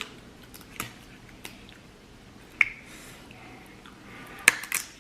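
Snow crab leg shells being snapped and cracked open by hand: a handful of sharp, separate cracks, the loudest pair close together near the end.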